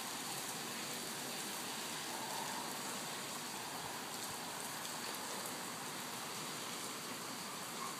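Steady rain falling on wet pavement and concrete, an even, unbroken wash of sound.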